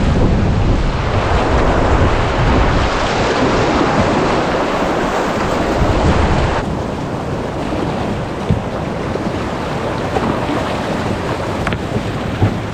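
Loud, steady rushing of river rapids, with wind buffeting the microphone. About six and a half seconds in, the sound changes abruptly and becomes a little quieter.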